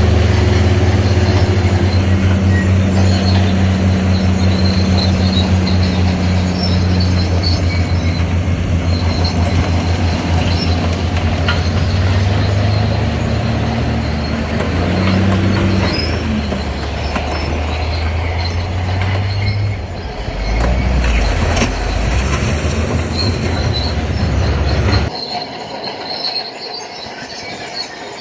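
Shantui crawler bulldozer working: the diesel engine runs under load while the steel tracks clank and squeal. The engine sound falls away sharply about 25 seconds in.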